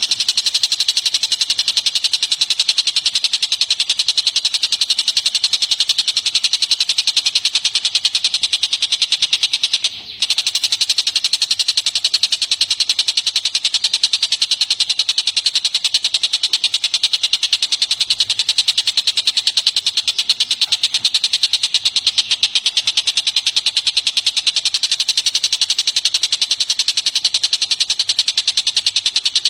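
Songbird giving a continuous, very fast high-pitched trill, the pulses running evenly without pause apart from a brief break about ten seconds in.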